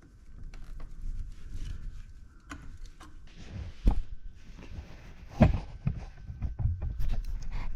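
Irregular knocks and clunks of a scrap refrigeration compressor being handled, with two louder knocks about four and five and a half seconds in.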